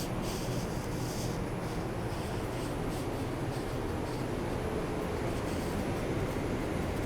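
Steady hum and rumble inside an R142 subway car, with faint hiss coming and going in the upper range.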